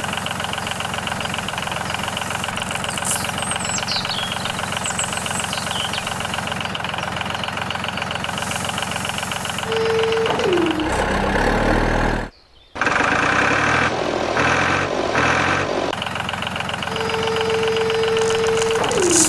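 An engine running steadily at an even idle-like rhythm. Twice a held tone sounds over it and drops in pitch at its end. The sound cuts out briefly a little past halfway.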